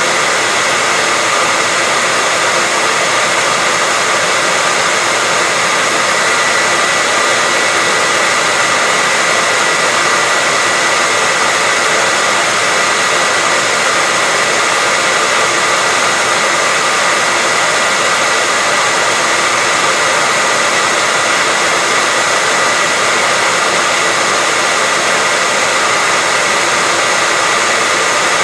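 Hair dryer running continuously at a steady speed: an even rushing of air with a constant high whine from its fan motor, unchanging throughout.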